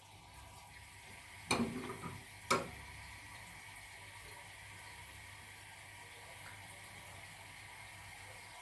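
Kitchen utensils or dishes clatter briefly, followed by a single knock about two and a half seconds in, then a faint steady hiss.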